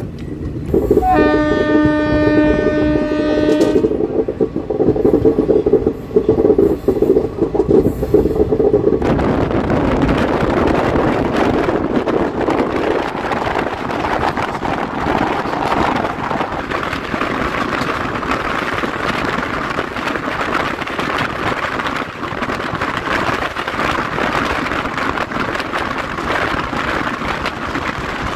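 Train horn sounding for about three seconds near the start, then the steady running noise of a moving passenger train with wheels clattering over the rails. The rushing noise grows louder from about nine seconds in.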